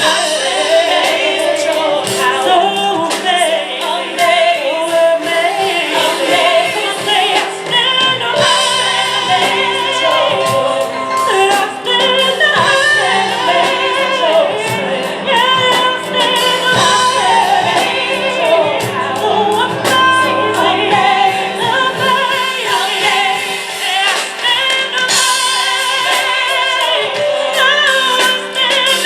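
Live gospel music: women's voices singing in wavering, bending runs over piano and drums.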